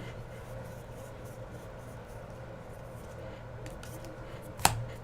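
Trading cards being handled and flipped through, with light rustling and one sharp click near the end, over a steady low hum.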